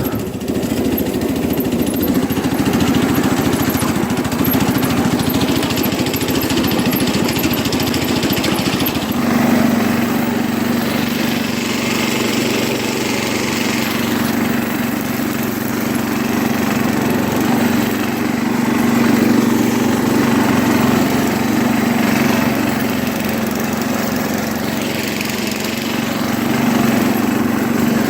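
1973 International Harvester Cub Cadet 86 garden tractor's single-cylinder engine running steadily under way. A steady low hum joins it about nine seconds in.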